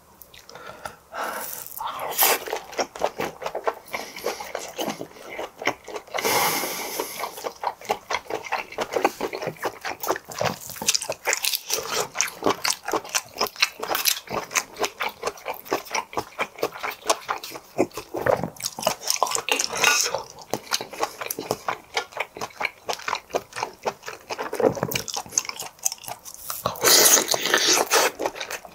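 Close-miked chewing of cooked whelk meat: a steady run of wet, chewy clicks, about three a second, with a louder rushing burst near the end.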